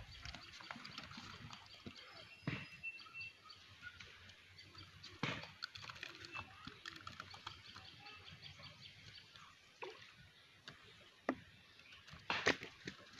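Faint outdoor ambience with small birds chirping and a few sharp knocks, the loudest about two and a half and five seconds in and again near the end.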